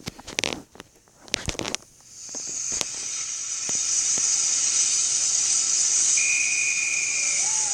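A few clicks and knocks, then a steam locomotive's steam hiss swelling in about two seconds in and holding steady, with a short high whistle-like tone near the end.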